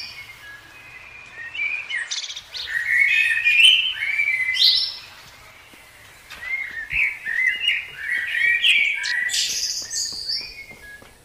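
Songbirds chirping and warbling in quick, overlapping high-pitched phrases, coming in two busy stretches with a quieter lull about five seconds in.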